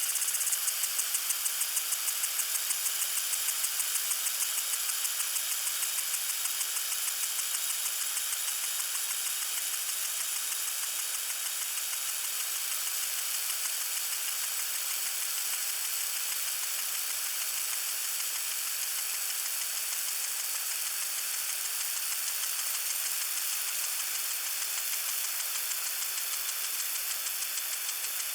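Lawn sprinkler spraying water: a steady hiss with a rapid, even ticking, about three or four ticks a second, that is strongest in the first few seconds and then fades into the hiss.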